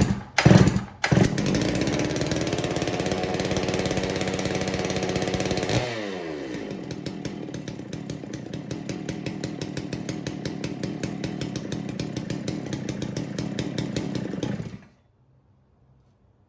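Freshly built 92cc two-stroke chainsaw, a Farmertec clone of the Stihl MS660, being pull-started on its first start. It catches within about a second and runs fast. About six seconds in, the engine speed falls away to a slower, evenly firing idle, and near the end the engine is shut off abruptly.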